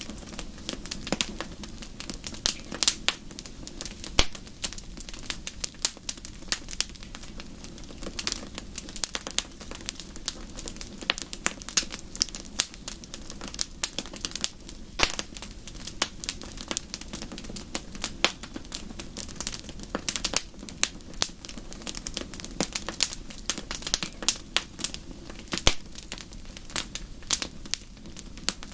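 Fire in a fireplace crackling: an irregular stream of sharp pops and snaps, several a second, over a low, even rumble of the flames.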